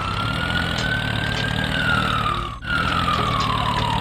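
A single whistle-like tone that rises slowly, then slides down in pitch, breaks off briefly about two and a half seconds in and slides down again, over a steady low engine hum.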